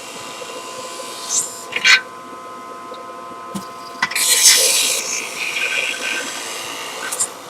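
Centrifugal juicer running with a steady motor whine, grinding louder about four seconds in as produce is pushed into the spinning blade basket, with sharp knocks near two seconds in and at the end.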